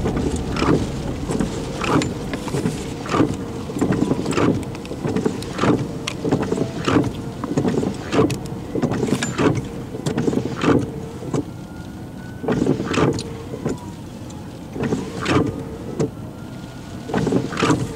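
Wind-driven rain buffeting a stopped vehicle, heard from inside over the steady hum of its running engine, with short irregular gusts or splatters about every second.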